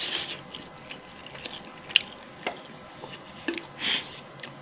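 Close-up chewing of Wai Wai instant noodles, with a few sharp clicks scattered through.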